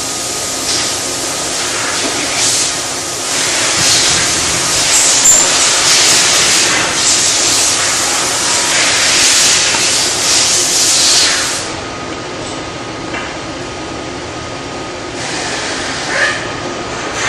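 Loud rushing, hissing water noise, stronger for the first twelve seconds or so and then settling to a lower steady hiss.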